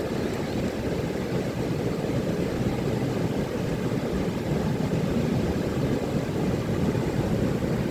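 Ocean surf on a beach, a steady low rumble of breaking waves.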